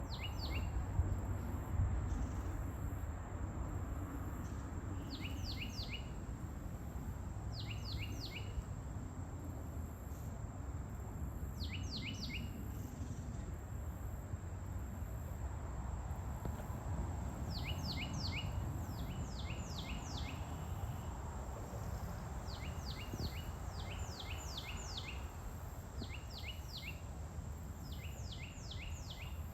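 Birds giving short bursts of two to five quick, falling "sweet" notes, the bursts coming every few seconds and more often in the second half. Under them runs a low steady rumble, with a faint steady high whine above.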